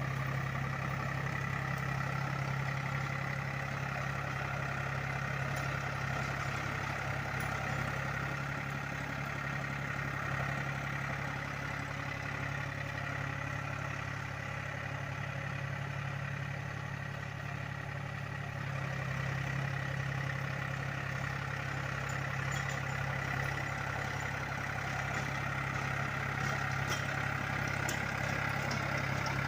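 Powertrac Euro 45 Plus 4WD tractor's three-cylinder diesel engine running steadily. It eases off slightly in the middle and picks up again about two-thirds of the way through.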